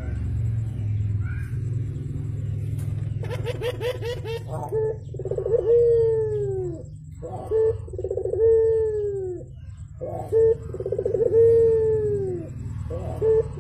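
Barbary dove (burung puter) cooing: a series of about five drawn-out coos that curve and fall in pitch, each opening with a quick stutter, over a steady low hum.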